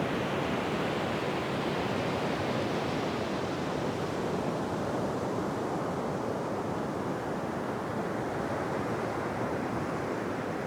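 Ocean surf: a steady wash of breaking waves, the hiss swelling a couple of seconds in and easing off in the second half.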